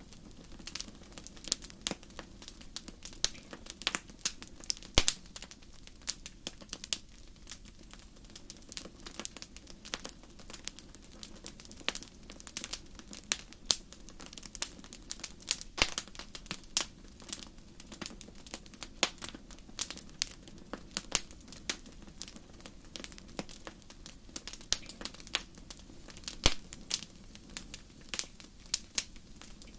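Fireplace fire crackling: irregular sharp pops and snaps, several a second, some much louder than others, over a low steady rush of flame.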